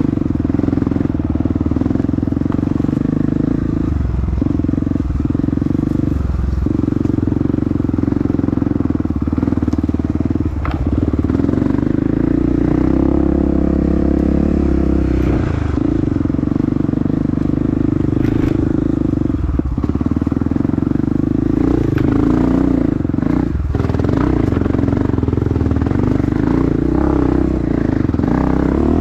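Dirt bike engine running hard on a trail, its note held steady with several brief dips as the throttle is eased off and picked up again.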